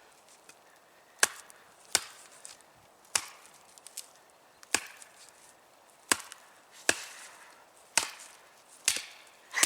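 Heavy machete chopping into damp, rotten wood: about nine sharp blows at uneven intervals, each a dull crack.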